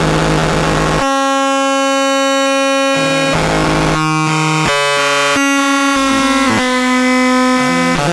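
Handmade METSÄÄN Dirty Drone analogue drone/noise synth playing a loud buzzing drone. It starts as a noisy rumble, then after about a second turns into clear tones rich in overtones that jump abruptly from pitch to pitch every second or so.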